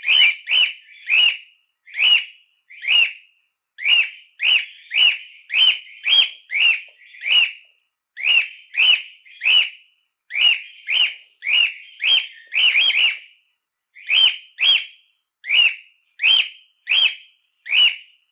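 Cockatiel giving a long series of short, shrill contact calls, about one to two a second, with a few brief pauses.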